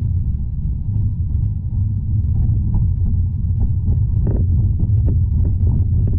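Tram running along the track, heard from inside the car: a steady low rumble with light clicks and rattles over it, and one short louder sound about four seconds in.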